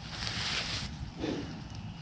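A brief rustle in the leaf litter over a steady low rumble, with a soft low thump just afterwards.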